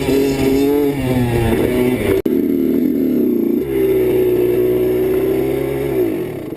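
Dirt bike engine running at fairly steady revs, with a brief break about two seconds in, then the revs falling away near the end.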